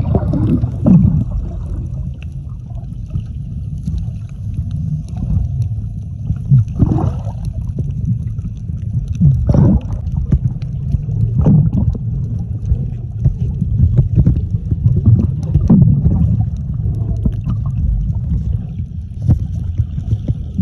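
Wind rumbling on the microphone out on the water, with short louder gusts every couple of seconds.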